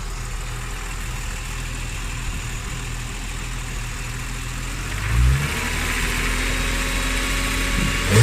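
BMW E36 M3 Evolution's 3.2-litre straight-six idling through a Supersprint exhaust. It is blipped once about five seconds in, a quick rise and fall in revs, then idles a little higher and starts to rev again right at the end.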